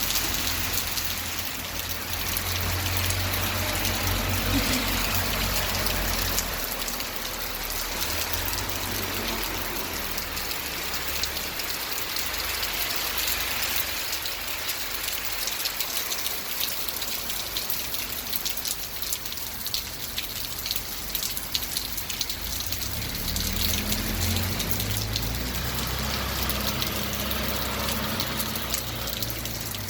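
Steady rain falling, a dense patter of many drops hitting a surface. A low rumble sits under it for the first several seconds, fades, and returns for the last several seconds.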